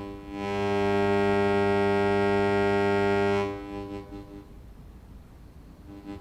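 Loudspeaker attached to a microwave receiver sounding a steady low buzzing tone, a sign that the receiver is picking up microwaves from the transmitter reflected into it. The tone swells up just after the start, holds for about three seconds, then drops to a faint tone as the receiver is moved.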